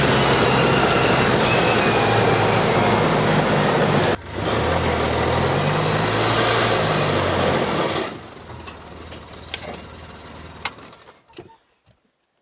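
Side-by-side utility vehicle's engine running under way with heavy wind-like noise, its pitch rising and falling with the throttle. It stops about eight seconds in, leaving quieter rustling and a few clicks.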